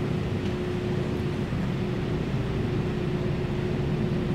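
A steady mechanical hum with one constant mid-pitched tone running under it, the background of a large indoor showroom.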